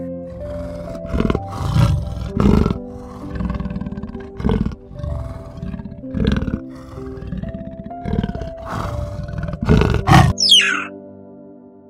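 Leopard giving a series of rough roaring growls, about ten in ten seconds, louder than a gentle instrumental music track playing underneath.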